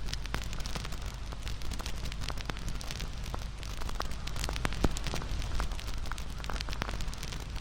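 Wood fire crackling, with dense small pops and snaps over a low rumble of burning flames. One sharper pop comes about five seconds in.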